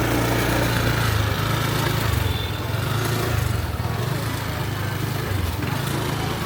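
A small engine running steadily close by, over general street noise.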